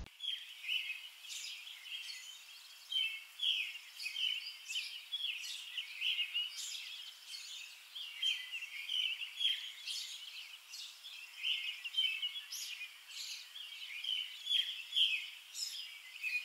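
Birdsong: a dense, continuous run of short, high chirps and calls.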